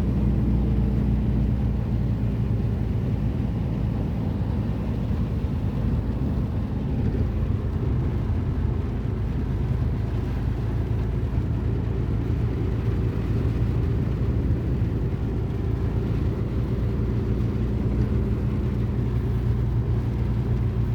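Vehicle engine and road noise: a steady low rumble with no change in pace.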